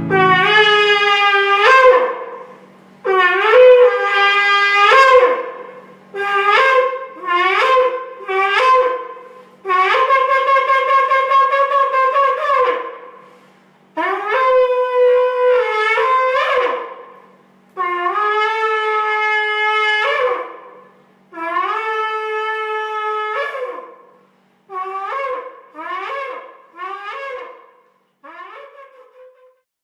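A shofar (ram's horn) sounding a series of blasts, each scooping up in pitch as it starts: long held notes of two to three seconds, shorter broken ones, and a run of four short blasts at the end, the last one fainter.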